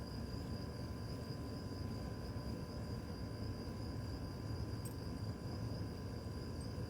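Outdoor night ambience: a steady low rumble under a constant, high-pitched insect drone.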